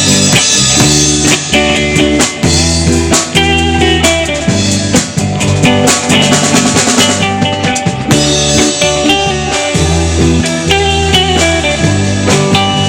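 Live band playing an instrumental passage: guitar over a steady bass line and drum kit.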